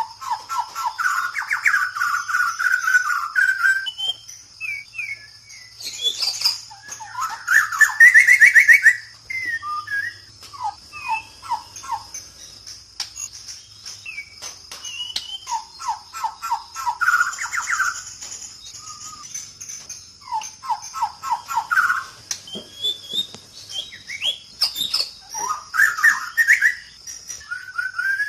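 Several Bornean birds calling and singing: quick series of whistled notes and trills that come and go every few seconds, the loudest a little past a quarter of the way in, over a steady high-pitched hum.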